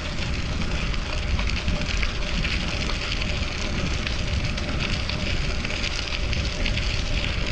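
Wind rushing over the microphone with a low rumble, over the steady crackling hiss of bicycle tyres rolling along the road on a moving fixed-gear bike.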